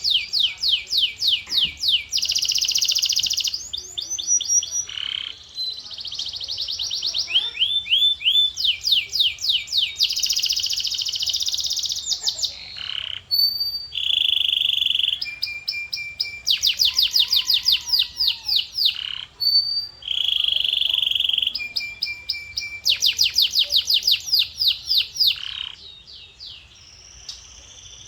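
Male canary singing a long song of fast trills, rolls and held notes that change every second or two. The song fades out and goes quieter near the end.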